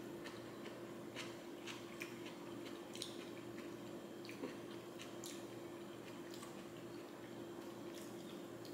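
A person chewing a mouthful of cold zucchini and onion salad, close to the microphone: faint, irregular clicks of the mouth.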